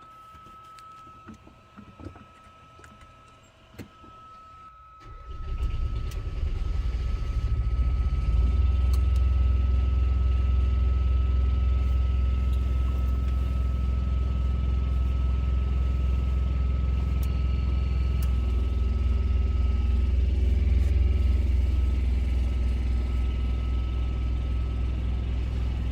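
A semi truck's diesel engine starts about five seconds in, then idles steadily with a low rumble. A few faint clicks come before it.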